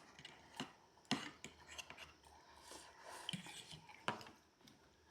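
Faint, scattered clicks and light scrapes of spoons against plates as eating begins.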